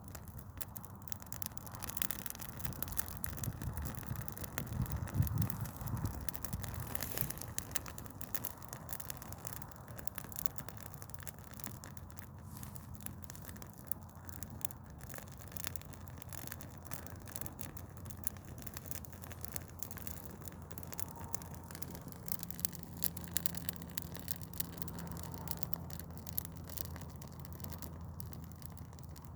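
Dry Douglas fir Christmas tree burning, crackling with dense irregular pops over a steady low rumble. The crackling is heaviest in the first several seconds.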